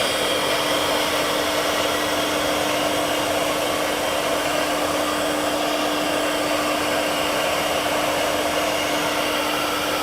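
MARS XE300 nesting CNC machining center running its automatic program, engraving or cutting: the air-cooled spindle gives a steady whine over a continuous rushing noise, with no change in speed.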